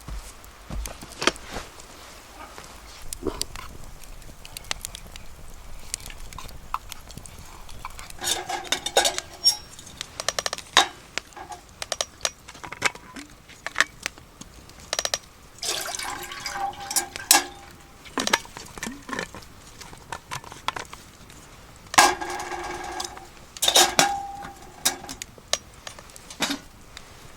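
Metal cookware and utensils clinking and clattering in short spells, three busier bursts of knocks with some ringing between quieter stretches, as camp food is prepared.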